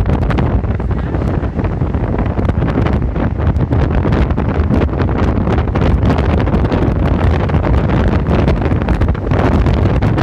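Storm wind buffeting the microphone: loud, constant, low-heavy wind noise with rapid irregular gusty crackle throughout.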